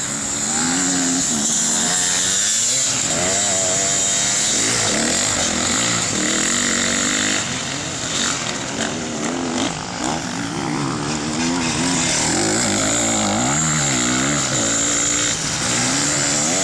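Several off-road racing motorcycle and quad engines running at once, revving up and down over and over as the machines race around a dirt circuit.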